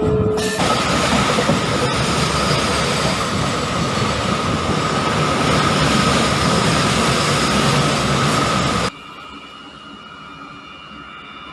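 MEMU electric train running, a loud rumbling noise with a steady high whine over it. About nine seconds in it drops abruptly to a much quieter steady running noise.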